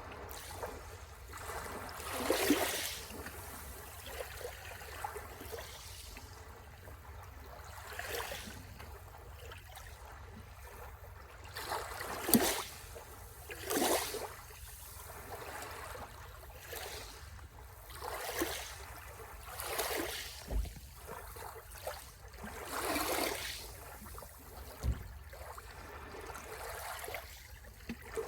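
Small sea waves lapping and splashing at the shore in irregular short bursts every one to three seconds, over a low steady rumble.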